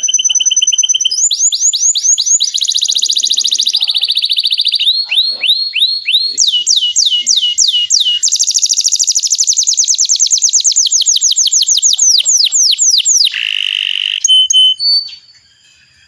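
Canary singing a long rolling song: fast trills of one rapidly repeated high note, switching to a new trill every second or two. The song stops near the end.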